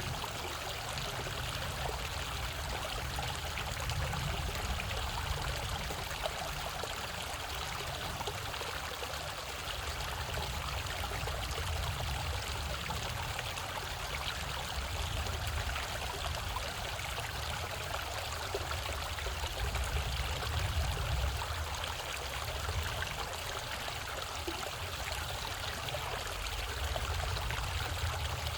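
Mountain valley stream flowing, a steady even rush of water with trickling, unchanging throughout.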